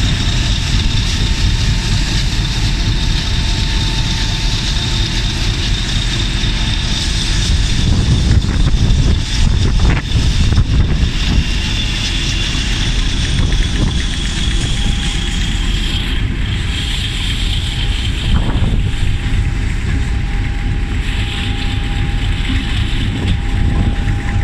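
Class 50 diesel locomotive's English Electric V16 engine running, a steady heavy rumble with a thin high whine, while a steam locomotive pulls away on the next track. Wind buffets the microphone.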